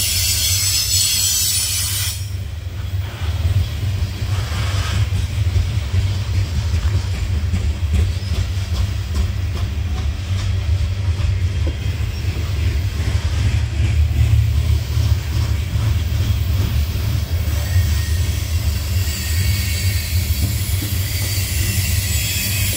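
Freight train of loaded coal hopper cars rolling past close by: a steady low rumble with wheels clicking over the rail. A high-pitched wheel squeal cuts out about two seconds in and comes back faintly near the end.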